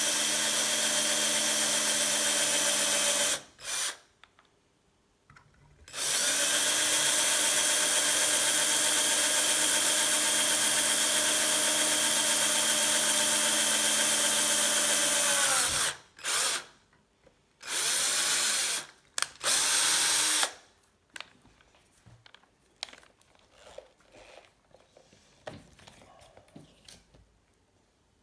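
Small electric drill running steadily with a few even tones while drilling small weight-saving holes in a vintage bicycle quick-release skewer. It spins up and winds down several times: a run of about three seconds, a long run of about ten seconds, then four short bursts, followed by faint clicks of handling.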